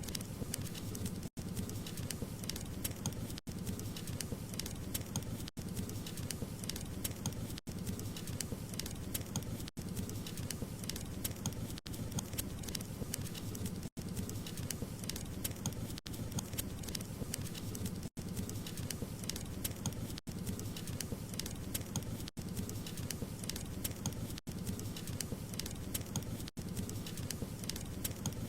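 Wood fire crackling steadily, dense small pops and snaps over a soft low rumble of burning logs, with a brief dropout about every two seconds.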